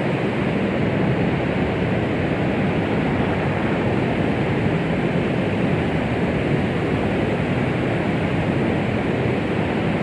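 Steady white-noise track of the 'womb sound' kind used to soothe babies: an unbroken, even hiss weighted toward the low and middle range, soft in the highs, with no heartbeat or rhythm.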